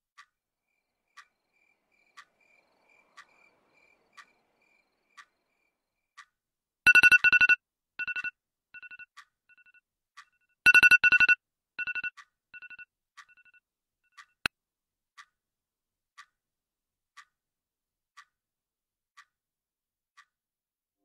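Clock ticking about once a second. About seven and again about eleven seconds in, a loud electronic ringtone-like beep sounds, each time followed by fading echoed repeats.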